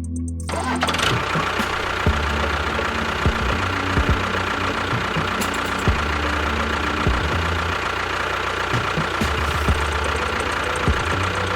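A small engine running steadily, starting about half a second in as music stops, with a faint low rhythmic pattern beneath.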